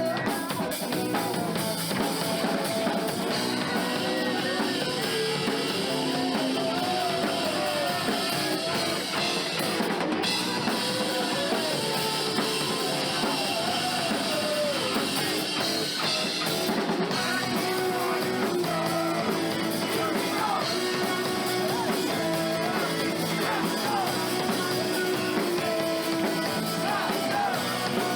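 Live rock band playing a song, with drum kit, electric guitars, bass and keyboard going steadily throughout.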